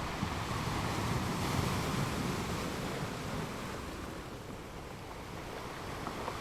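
Sea waves washing in, a steady rush that swells in the first couple of seconds, eases off about four seconds in, then builds again.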